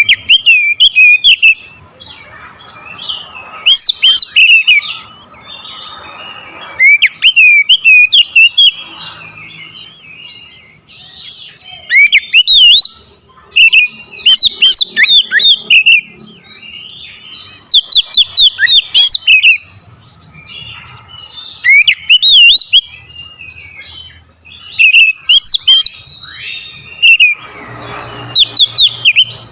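Oriental magpie-robin (kacer) singing loudly: bursts of rapid, varied chirps and whistles lasting a second or two, repeated every few seconds, a full show of its song repertoire.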